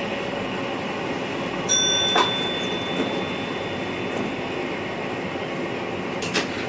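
Steady running noise of an NS VIRM double-deck electric train heard in the driver's cab. About two seconds in there is a short high ringing tone, and a few sharp clicks come through the rumble.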